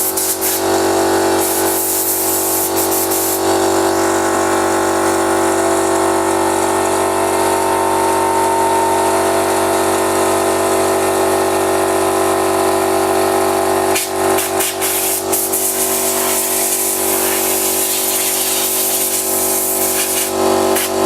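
Oil-lubricated 24-litre electric air compressor running steadily, refilling its tank, with stretches of hissing air from a blow gun being used to blow off parts.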